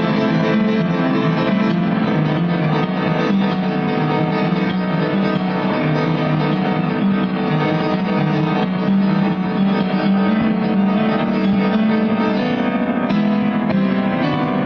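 Instrumental passage of a live band song after the vocal line has ended, the band playing on steadily without singing.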